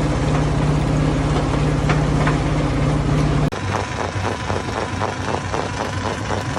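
Hammer stone crusher machinery running with a steady, loud drone, which changes abruptly about three and a half seconds in to a lower, engine-like running sound with a rapid, even knocking.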